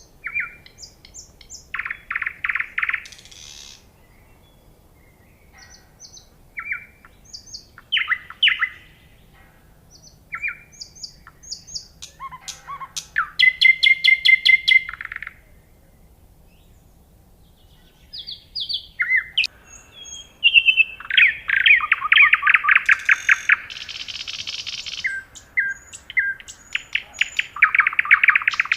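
A songbird singing a varied song of rapid trills and short high whistled notes, in phrases broken by brief pauses.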